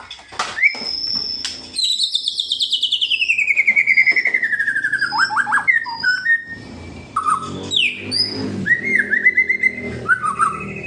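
White-rumped shama (murai batu) singing: about two seconds in, a long, rapid rattling trill that slides down in pitch, followed by short whistles and chirps. The rattle is the kretekan, a call played to rile rival male shamas.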